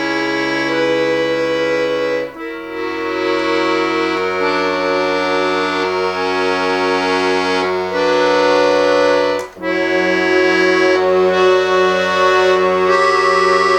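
Bayan (Russian button accordion) solo playing sustained chords over held bass notes, with two brief breaks between phrases.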